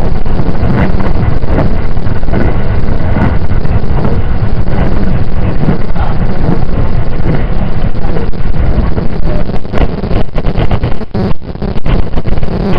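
Running noise heard inside a JR 681 series limited-express electric train at speed: a loud, steady rumble of wheels on rails, with a run of knocks and brief dips in level near the end.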